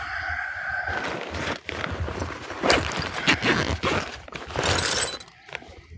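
A drawn-out squeak for the first second, then irregular thumps and shuffling like footsteps and rummaging through tools, with light metal clinks near the end.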